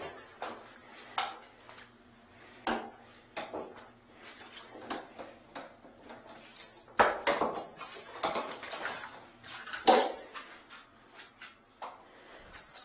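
Irregular clinks and knocks of hard objects being handled and set down, with louder clatters about seven and ten seconds in.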